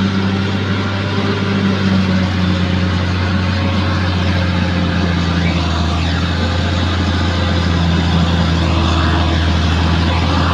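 Bulldozer's diesel engine running steadily under load, a deep even hum, with a few faint higher whines that rise and fall midway and near the end.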